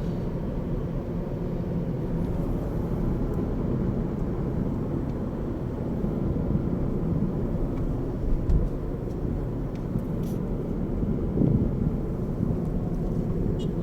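Motor vehicle on the move: a steady low rumble of engine and road noise, with a few brief knocks partway through.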